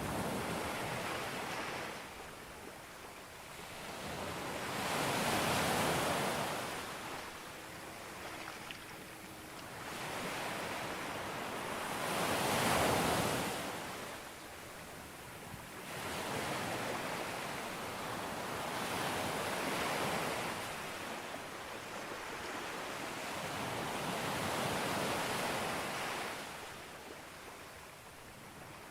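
Sea waves breaking on a beach, the surf swelling and falling back about every six to seven seconds; four surges, the loudest about halfway through.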